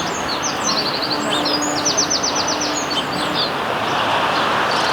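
Sparrows chirping, many short high calls with a quick run of rapid repeated notes in the middle, over steady background noise.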